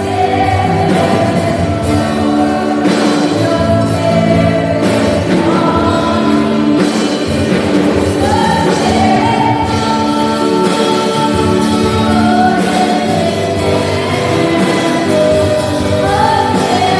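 Church worship team singing a gospel praise song with several voices and instrumental accompaniment, held and sliding sung notes throughout.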